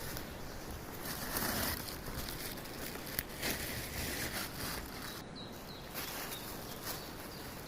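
Outdoor woodland ambience: a steady hiss with soft swells and rustles and a few light clicks.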